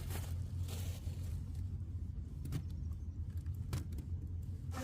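A vehicle engine running with a steady low rumble, with a few light clicks over it.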